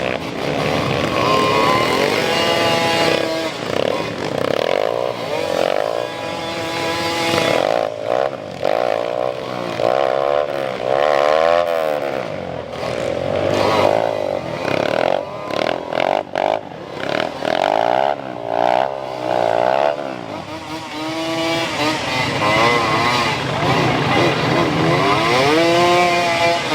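Motocross bikes' engines revving hard, pitch climbing and dropping again and again as they shift through the gears. Several bikes overlap through the middle, with one or two heard near the start and end.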